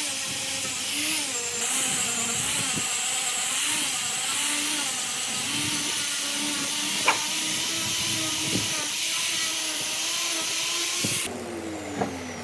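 A power tool working wood: a motor whose pitch wavers up and down and then steadies, over a continuous hiss of cutting. The hiss stops abruptly about 11 seconds in.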